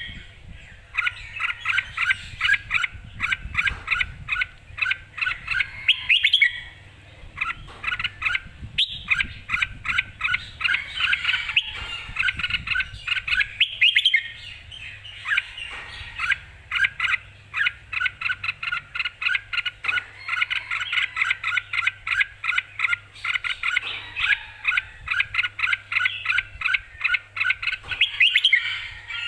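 Red-whiskered bulbul singing in fast, near-continuous runs of short chirping notes, broken by a few brief pauses.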